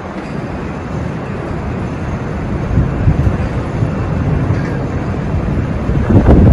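Strong storm wind blowing across the microphone, a dense low rush in gusts that gets loudest near the end.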